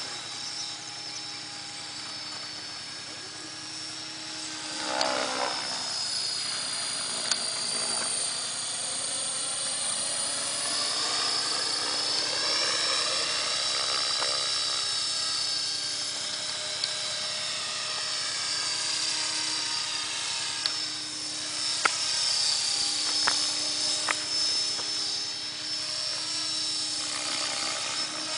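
Align T-Rex 500 electric RC helicopter in flight: a high motor-and-gear whine over the rotor hum, its pitch drifting up and down as the helicopter moves about.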